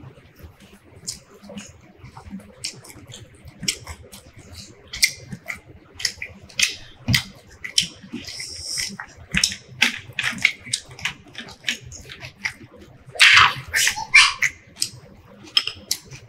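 Close-miked eating sounds: wet mouth clicks and chewing of roti and rice eaten by hand, in quick irregular ticks, with a louder noisy stretch about thirteen seconds in.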